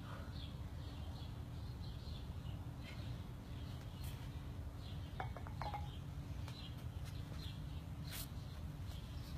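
Birds chirping in short, high calls, about two a second, over a low, steady background rumble.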